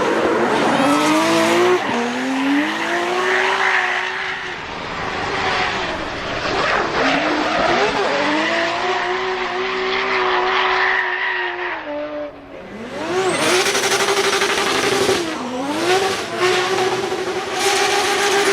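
Drift car engine at high revs, its note climbing, holding and falling with the throttle over squealing tyres. About twelve seconds in it drops away briefly, then a second high-revving run picks up.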